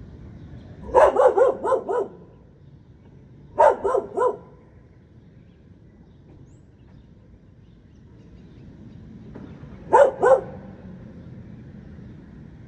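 A dog barking in three quick runs: about five barks, then three, then two near the end, over a low steady background rumble.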